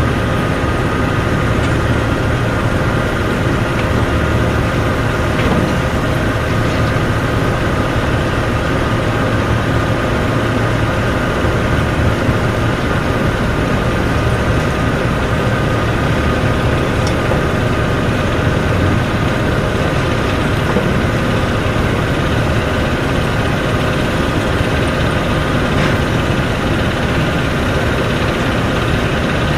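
Heavy diesel machinery running steadily: a dense low drone with a steady high whine over it.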